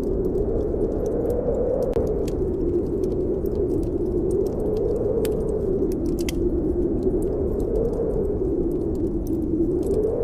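Snowstorm wind howling steadily, its pitch slowly rising and falling, while a wood fire in a fireplace crackles with scattered small sharp pops.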